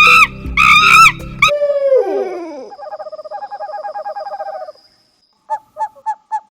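Two short pitched animal calls over background music, followed by a falling whistle-like glide, a rapid warbling trill and four short beeps near the end.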